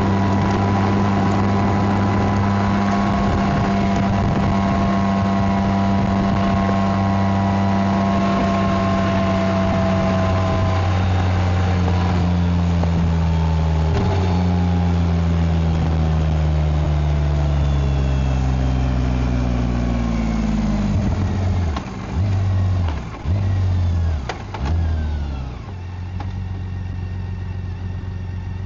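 BMW K1600GT's inline-six engine and exhaust running at a steady pace, then falling in pitch over several seconds as the bike slows. Near the end come a few short throttle bursts before it settles to a low idle.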